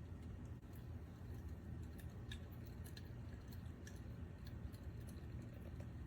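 Pet water fountain's small pump running with a steady low hum, with scattered light clicks over it.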